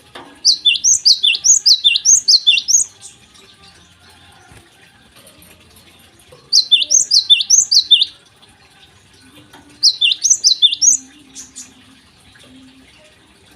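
Java sparrow singing in three bursts of rapid, high chirping notes, the first nearly three seconds long and the later two shorter.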